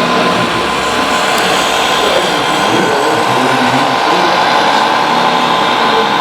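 Radio-controlled scale construction machines running, their electric motors and hydraulic pumps giving a steady whine.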